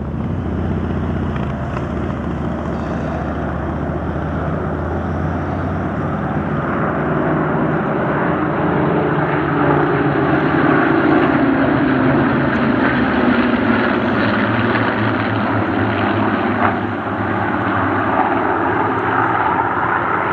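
A formation of Spitfires flying past, their V12 piston engines running. The sound grows louder through the middle, with the pitch falling as they pass.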